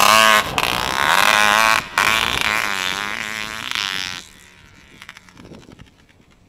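Motorcycle engine revving hard as the bike accelerates off, its pitch wavering, with two brief breaks about half a second and two seconds in. The sound drops away suddenly just after four seconds.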